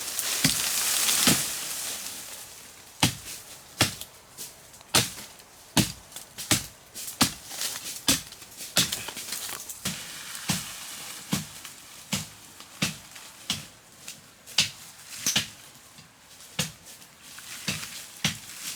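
Repeated chopping strokes into wood, sharp strikes landing irregularly about once every half second to a second, with a rush of hiss in the first two seconds.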